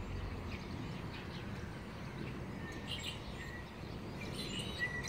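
Quiet outdoor ambience with a few faint, short bird chirps in the second half.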